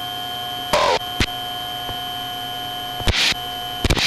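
Steady electronic warning tone in the Cessna 310 cockpit audio, heard over the headset intercom, with a few short bursts of crackle.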